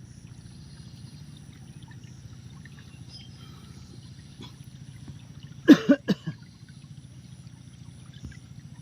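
Water trickling and flowing steadily in a stream. About six seconds in, a person's voice breaks in briefly with a short exclamation.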